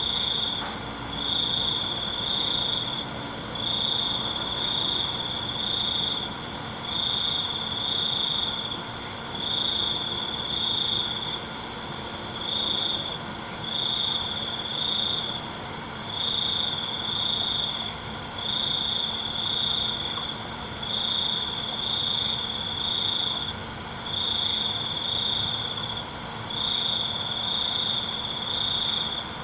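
Night chorus of crickets and other insects. One loud, high trill comes in trains of a second or two with short breaks, over a steady higher-pitched insect drone. A brief flurry of sharp clicks comes a little past the middle.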